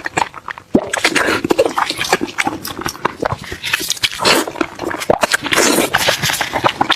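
Close-up eating sounds of braised pig head: wet chewing, lip-smacking and sucking at the meat, with many quick clicks and a couple of longer wet sucking noises in the middle.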